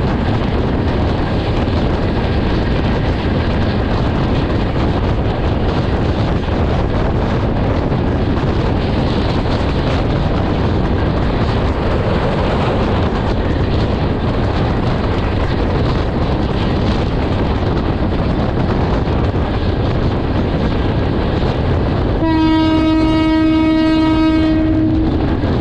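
Passenger train running at speed, heard from beside an open carriage window: a steady, loud rush of wheel and wind noise. Near the end the train's horn sounds one steady blast about three seconds long.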